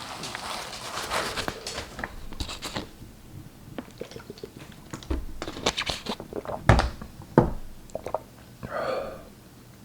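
A person eating spicy instant ramen noodles up close: slurping and chewing, with scattered sharp clicks and taps from about four seconds in, and a short vocal noise near the end.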